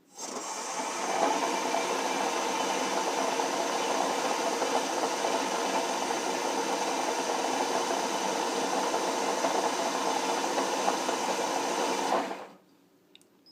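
Shopsmith Power Pro headstock motor spinning up to 2000 RPM over about a second, running steadily, then shutting off and winding down near the end. It runs normally, with no low-voltage fault.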